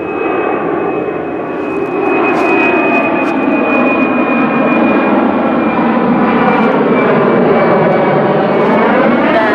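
Low-flying airplane passing overhead: a loud engine roar that grows louder about two seconds in, with a thin high whine that fades out in the second half, and the roar's pitch pattern sweeping as the plane passes near the end.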